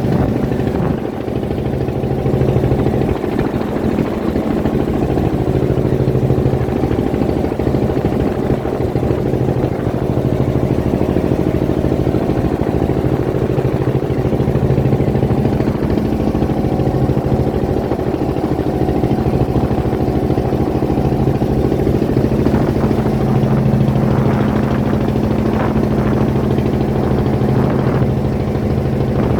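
Fishing boat's engine running steadily at a constant speed, with a steady low drone throughout.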